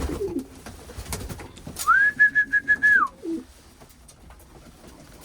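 Homing pigeons cooing in the loft, with a loud, high squeak about two seconds in that rises, holds for about a second with a fast flutter, then drops away.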